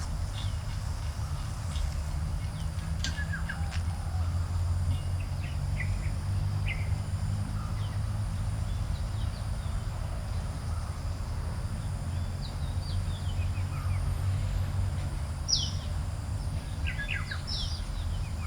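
Garden birds chirping: scattered short calls and brief trills, with a cluster of louder chirps near the end, over a steady low rumble.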